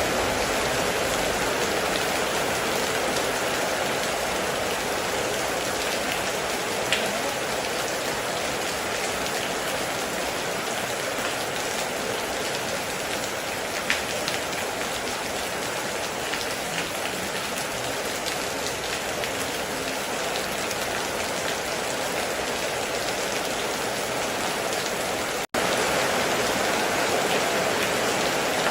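Steady heavy rain falling on a metal roof, with a couple of louder single drops standing out. The sound cuts out for an instant about three quarters of the way through.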